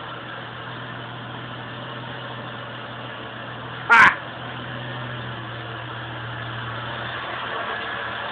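Turbocharged Jeep 4.0-litre straight-six idling steadily with an even low hum. Near the middle there is one brief, loud, high-pitched sound.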